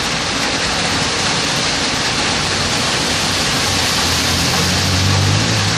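Heavy rain pouring down in a steady, loud hiss. From about halfway through, a vehicle engine's low hum joins in and grows louder toward the end.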